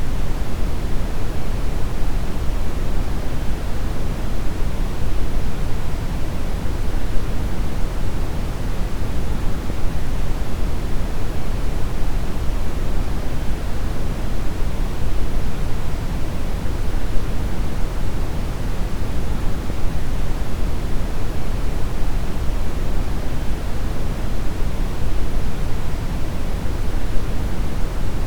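Steady brown noise: a deep, even rumble-like hiss, strongest in the low end and falling off toward the highs, unchanging throughout.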